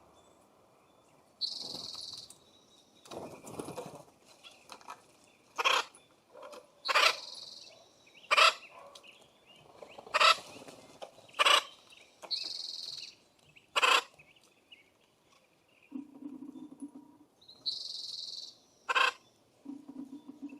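Birds at a wooden feeding station: sharp knocks and taps at irregular intervals, about seven loud ones, with short harsh bird calls in between.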